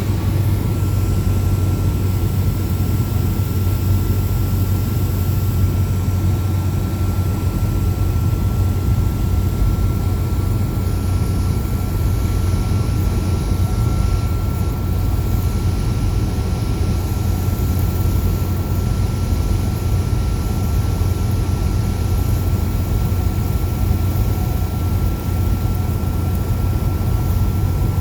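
Cessna 172's piston engine and propeller running steadily: a loud, even drone with a thin steady whine above it.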